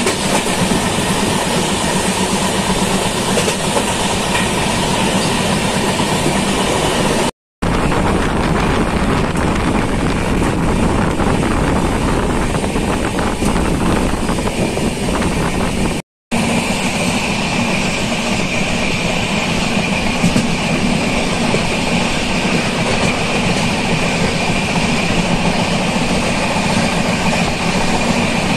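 Passenger train running along the track, heard from inside the coach: a steady, loud rumble and rattle of wheels on rails. The sound cuts out for a moment twice.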